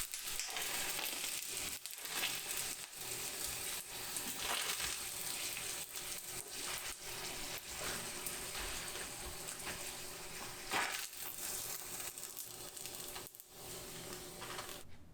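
Carrot tempura deep-frying in hot oil: a steady sizzle with dense crackling that stops suddenly near the end.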